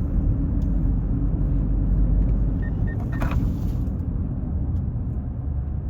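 Steady low rumble of a car driving, heard from inside the cabin, with a brief rush of noise about three seconds in.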